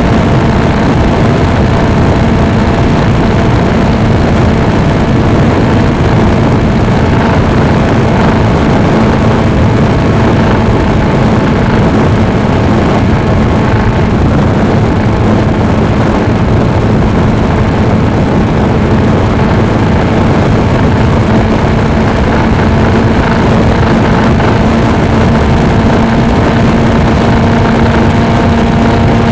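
Suzuki V-Strom 250 motorcycle riding at a steady speed: its engine hums at a nearly constant pitch under a loud, continuous rush of wind and road noise on the action camera's microphone.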